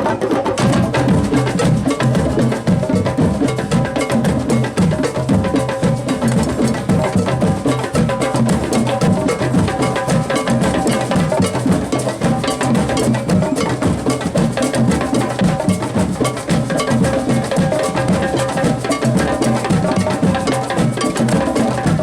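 Percussion music with drums and struck metal or wood, playing a steady, dense beat.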